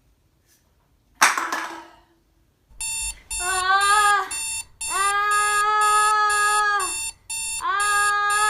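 Sonar-like electronic beeping in repeated steady pulses, with long, steadily held pitched calls over it. A short noisy rush comes about a second in.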